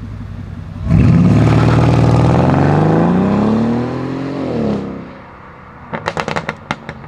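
Mercedes-Benz E500's 4.7-litre twin-turbo V8, with a custom downpipe and exhaust, going from idle to full throttle about a second in. Its pitch climbs steadily for about four seconds and then cuts off suddenly. About a second later comes a rapid string of sharp cracks.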